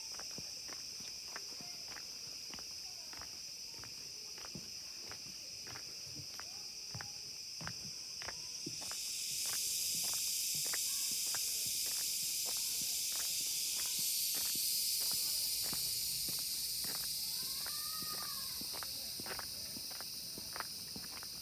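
Tropical rainforest insect chorus: layered steady high buzzing that swells louder about nine seconds in and eases off toward the end, over a regular ticking about two to three times a second, with a few short bird calls.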